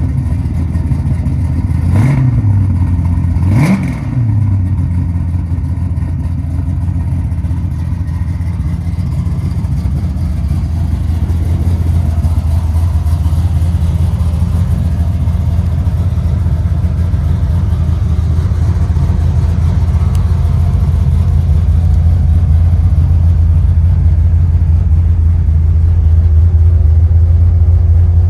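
540 cubic-inch big-block V8 of a 1969 Chevrolet Chevelle drag car running through its exhaust, blipped twice in quick revs about two and four seconds in, then idling steadily and growing louder near the end.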